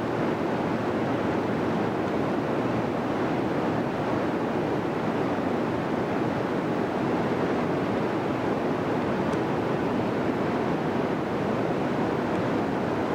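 Steady rushing roar of a hydroelectric powerhouse, with its turbine-generators running, heard unbroken and without any pitched hum.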